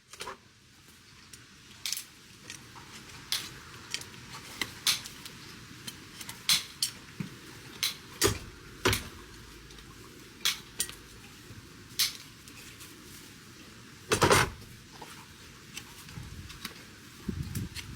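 Irregular sharp clicks and snips of hand trimming tools working a horse's hoof, with a louder clatter about fourteen seconds in.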